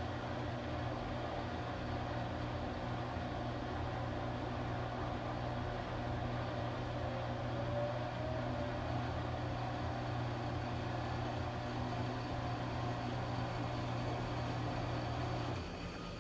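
Washing machine running with a steady low motor hum and whir; shortly before the end the low hum drops away and the sound eases.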